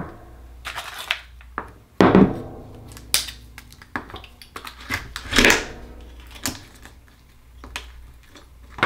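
Irregular clicks, knocks and scrapes of a knife working open a thick-shelled Akoya pearl oyster, with two louder knocks about two and five and a half seconds in.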